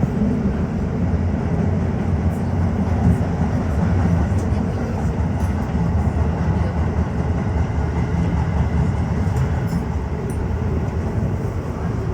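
Tokyo Metro 15000-series subway train running at speed through the tunnel, a steady rumble of wheels on rail and running gear heard from inside the lead car.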